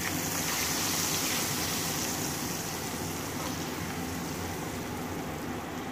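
Boiled chickpeas sizzling in hot oil in a wok while they are stirred with a spatula: a steady frying hiss.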